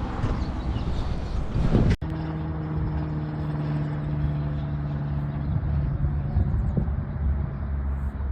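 A vehicle running with a steady low hum, after the sound drops out sharply about two seconds in.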